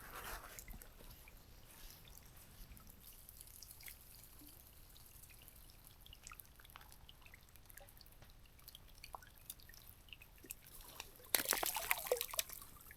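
Faint, irregular drips and small ticks of melting snow and meltwater falling from the trees, with a short burst of rustling noise near the end.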